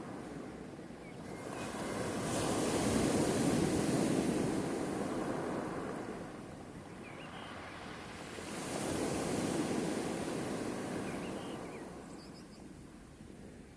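Sea surf: two waves surge in and ebb away, about six seconds apart.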